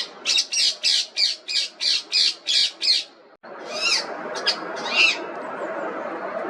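Indian ringneck parakeet calling in a fast run of sharp, repeated squawks, about three a second. After a brief dropout come a few more separate calls.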